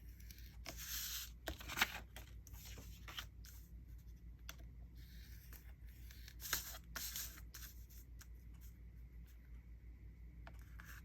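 Faint scratchy strokes and rustling as a tool is drawn across scrapbook paper and the paper is handled while it is measured and marked.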